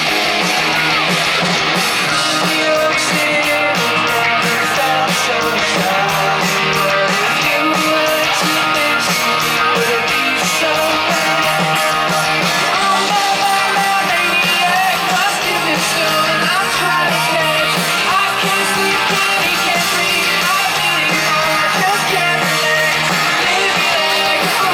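Live rock band playing, with electric guitar, drums and vocals, heard loud through a crowd recording.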